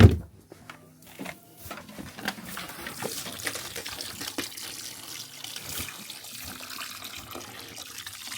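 A thump, then water pouring steadily into an animal waterer, starting about two and a half seconds in.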